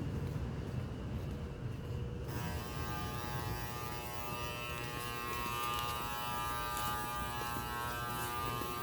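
A low rumbling noise that gives way abruptly, about two seconds in, to a steady buzzing hum made of many even tones.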